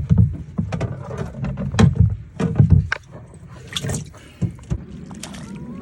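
Irregular knocks and thumps of handling in a small fishing boat, the loudest in the first three seconds, over a steady low hum.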